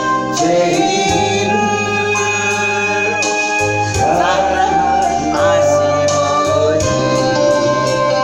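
Church praise music: singing over a band with keyboard and steady bass, in a gospel worship style.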